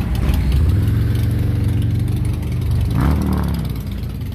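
Motorcycle engine running at a steady pitch, then a brief rev about three seconds in that rises and falls back.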